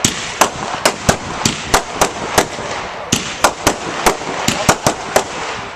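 Fireworks display: a rapid, irregular run of sharp bangs, about three a second, over a continuous crackling hiss.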